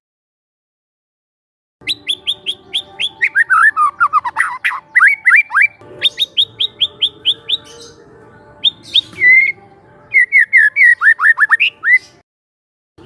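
Young wild white-rumped shama singing: after about two seconds of silence, fast runs of short repeated chips and falling whistled sweeps follow one another in quick bursts, with a short break near the end.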